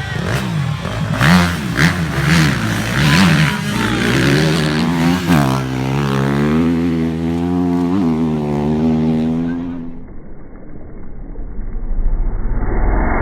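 Rally motorcycle engines revving hard through the gears, the pitch swinging quickly up and down, then one engine holding a slowly rising note for several seconds. About ten seconds in the sound turns duller and briefly quieter, then another engine builds up.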